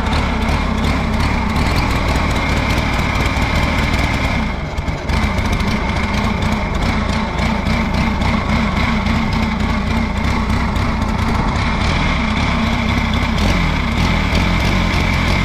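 Allis-Chalmers G tractor's four-cylinder gasoline engine running steadily but not on all four cylinders, a misfire the owner blames on a bad spark plug wire, or possibly the carburetor. It briefly dips about four and a half seconds in, then picks up again.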